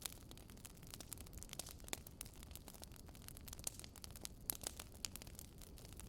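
Wood fire crackling: many irregular sharp pops and snaps over a faint steady low rumble.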